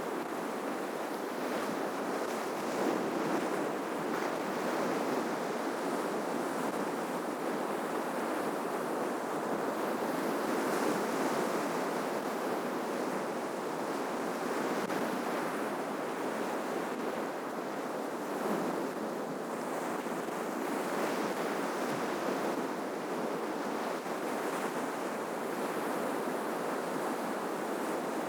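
Ocean surf washing ashore in a steady rush that swells and eases every several seconds.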